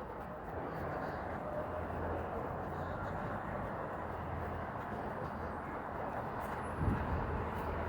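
Steady city street traffic noise with a low hum, and a brief thump about seven seconds in.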